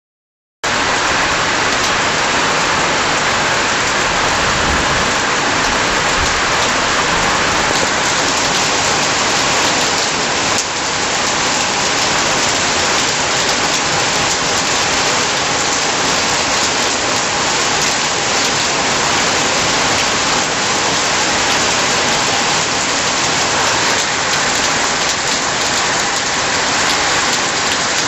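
Heavy rain pouring down in a steady, dense hiss, starting abruptly about half a second in.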